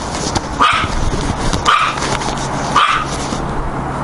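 A dog barking three times, about once a second, at something it has spotted.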